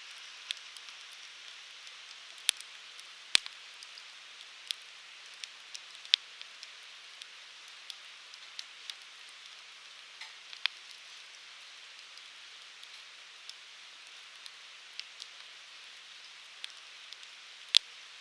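Firewood burning in a Uniflame Fire Grill: a steady soft hiss of flames with irregular sharp crackles and pops, a few of them much louder than the rest.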